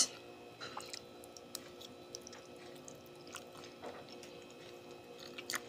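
Quiet chewing of a mouthful of carbonara pasta, with scattered faint clicks and mouth sounds over low room hum.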